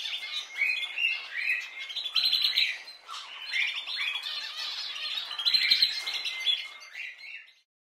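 Birds chirping: a rapid run of short, high, overlapping calls that stops shortly before the end.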